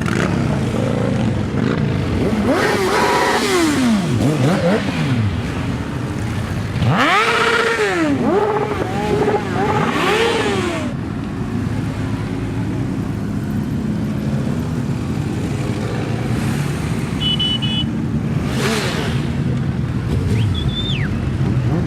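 Motorcycle engines running, their engine note rising and falling in sweeping arcs twice, about three seconds in and again about seven to eleven seconds in, over a steady engine drone.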